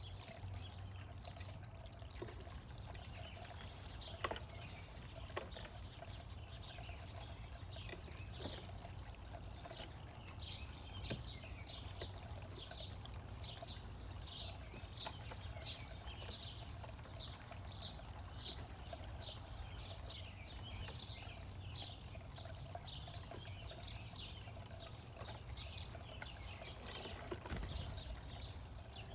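Small birds chirping in quick, repeated short notes, thickening into a steady run of chirps from about a third of the way in. A few sharp clicks stand out in the first several seconds, the loudest about a second in, over a faint steady hum.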